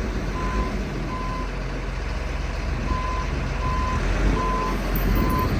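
Caterpillar 914 compact wheel loader's diesel engine running while it reverses, its backup alarm beeping about every 0.7 s, pausing briefly after a second and then beeping again. The loader is being driven back and forth to seat its newly fitted tire chains.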